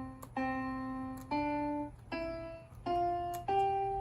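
Electronic piano notes played one at a time, five in all, each a step higher in pitch than the one before.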